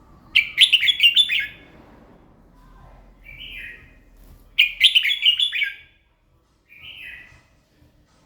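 Red-whiskered bulbul singing: two quick warbled phrases about four seconds apart, each followed a couple of seconds later by a short, fainter single note.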